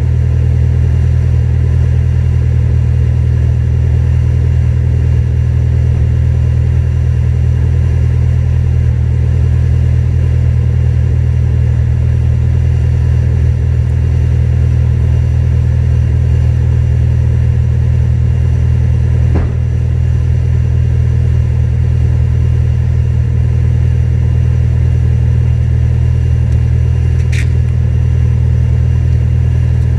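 Supercharged Acura TSX with a J's Racing titanium exhaust, its engine running at a constant speed with a deep, steady exhaust drone. A short click comes about 19 seconds in.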